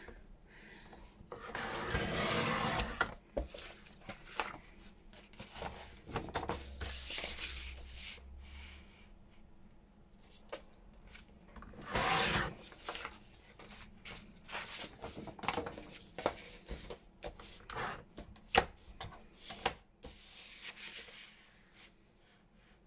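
Paper trimmer cutting sheets of paper to size: three long swishes of the blade drawn across the paper, about 2, 12 and 20 seconds in, with short taps and rustles of paper being handled and repositioned between them.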